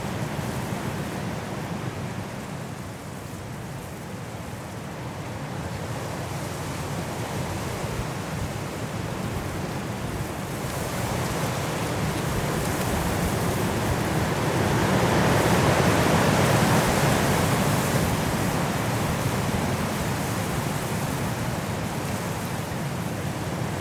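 Strong wind blowing through trees in a snowstorm, a steady rushing that swells into a loud gust about two-thirds of the way through and then eases.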